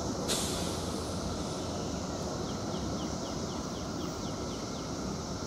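Steady low rumble of an approaching work train, a locomotive shoving a caboose. About a third of a second in, a sudden hiss fades away over about a second. Around the middle, a bird gives a quick trill of falling notes.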